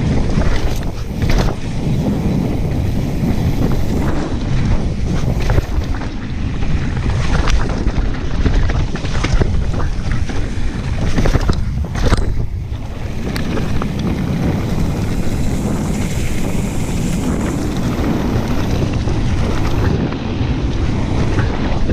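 Heavy wind buffeting on the microphone of a camera riding a mountain bike down a trail, with irregular knocks and rattles from the bike over rough ground.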